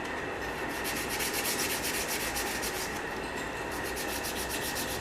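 Abrasive paper rubbed back and forth over the rusted shaft of a car's wiper linkage in quick, even strokes, scouring off the rust that had seized it in its plastic mount. The strokes start about half a second in.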